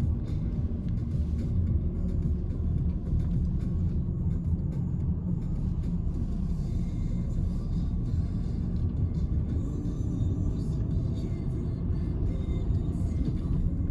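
Steady low rumble inside the cabin of a Citroen C-Elysee on the move: its 1.2 PureTech three-cylinder petrol engine and the road noise.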